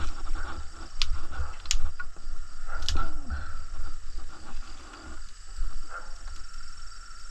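Kindling fire of slightly damp twigs burning, with a few sharp pops about one, two and three seconds in over a low rumble.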